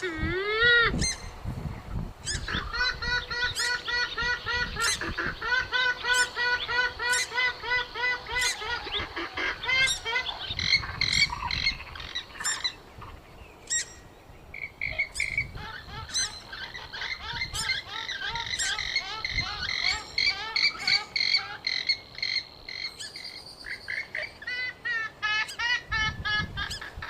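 Purple swamphen (mandar biru) calls played as a hunting lure: long rapid series of repeated nasal, honking notes, with a short lull about halfway through before the calling picks up again.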